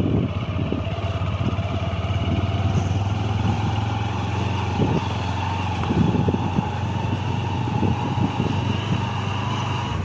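Motorcycle engine running steadily while riding, its note drifting slowly upward, with scattered low thumps.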